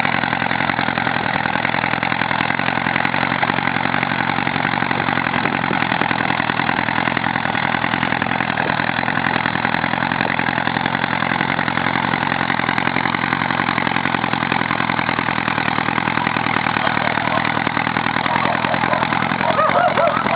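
Dacia car engine in a homemade tractor running steadily at an even speed, with no revving. A voice starts speaking over it near the end.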